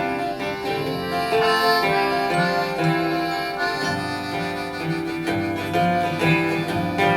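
Accordion playing a melodic instrumental passage of held notes over acoustic guitar accompaniment.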